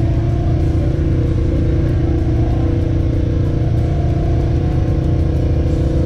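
Engine of a Honda Pioneer 1000 side-by-side, a parallel twin, running steadily while the machine drives along a trail.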